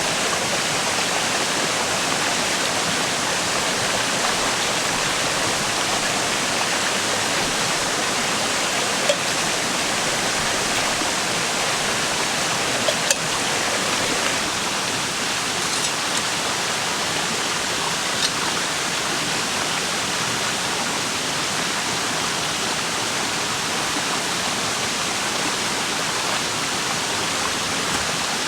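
A river's steady rushing murmur of flowing water, with a few brief sharp clicks standing out about a third and halfway in.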